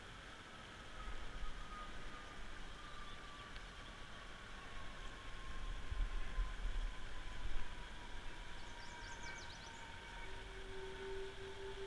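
Steady outdoor background noise with a distant engine hum that slowly falls in pitch, and a few faint bird chirps about nine seconds in.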